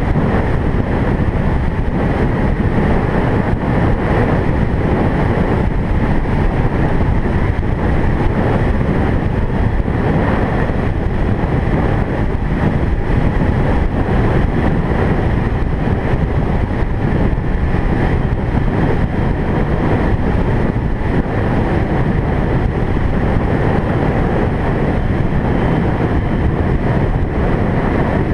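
Steady road and wind noise of a car driving, a loud even rumble heaviest in the low end.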